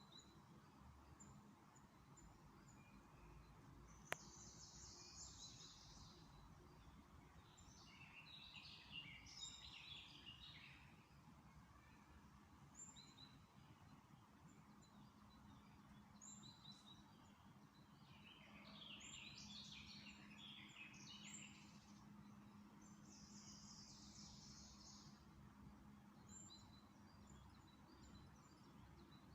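Faint songbirds singing: four short bursts of rapid high chirping song, with single high chirps scattered between them. A sharp click comes about four seconds in, and a low steady hum runs underneath.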